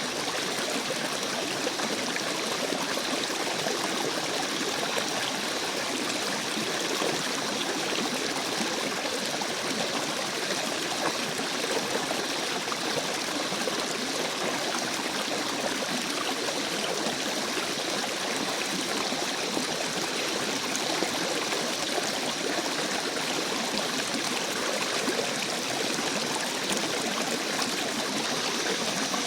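Stream of running water, flowing with a steady, unbroken trickling rush.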